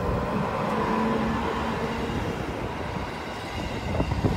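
JR 415 series 1500-subseries electric train pulling out of the station past the platform: a steady rumble of wheels on rail with a humming tone, slowly fading as it gathers away. One short knock comes near the end.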